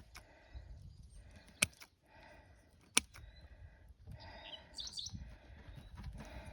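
Two sharp snips about a second and a half apart as tangled plastic bird netting is cut, with birds chirping faintly.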